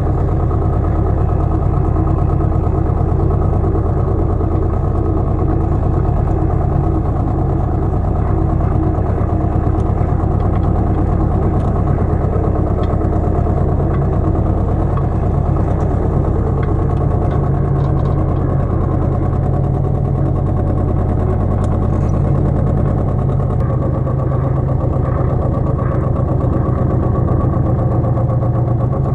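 Pasquali 980 EX small farm tractor's engine running steadily.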